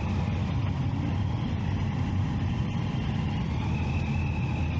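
Triumph Street Triple 675's three-cylinder engine running at a steady pace, a dense low rumble with no change in revs.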